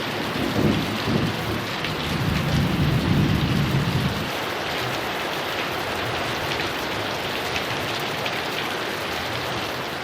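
Heavy rain falling steadily, with a low rumble of thunder that dies away about four seconds in, leaving the rain on its own.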